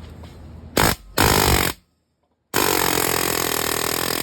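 Pneumatic air hammer firing in two short bursts, then, after an abrupt cut, running continuously against a seized swingarm pivot bolt.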